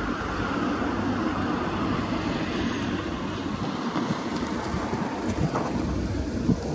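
Diesel locomotive hauling a container freight train toward the listener, its engine running with a steady low hum over the noise of the moving train.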